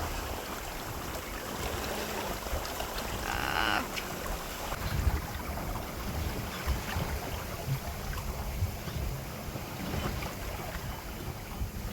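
Wind buffeting the microphone over the wash of water, a steady uneven low rumble, with one brief higher sound about three and a half seconds in.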